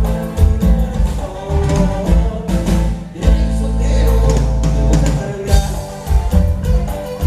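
Live Latin band music: a strong bass line and drum hits under held chords, with a long sustained chord through the middle.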